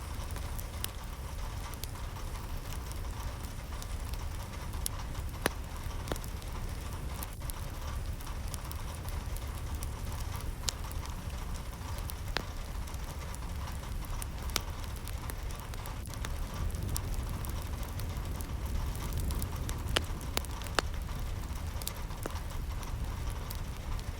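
Steady rain falling, with scattered sharper drops landing close by and a low, even rumble beneath.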